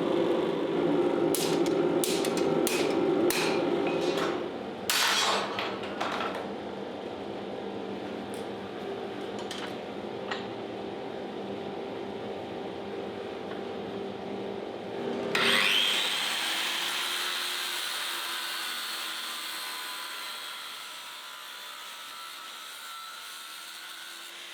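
Hammer blows on steel, a quick series of strikes over the first few seconds, over a steady machine hum. About fifteen seconds in, a hissing whir starts suddenly and slowly fades.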